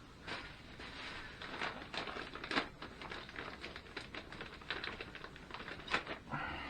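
Irregular clicking, tapping and short scraping from hands and small tools working on engine parts, with a brief rasp near the end.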